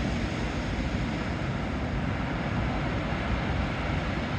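Ocean waves crashing against rocks, a steady rush of surf, with wind rumbling on the microphone.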